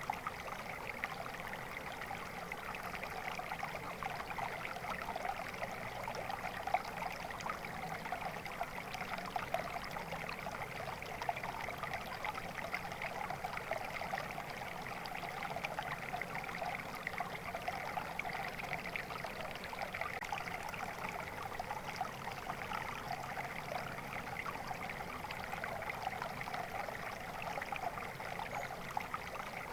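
Flowing water in a stream, a steady babbling trickle over stones.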